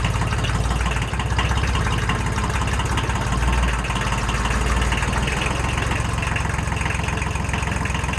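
Kubota L1802 compact tractor's diesel engine running steadily at idle, just after a glow-plug start, with the new hydraulic pump and filter fitted.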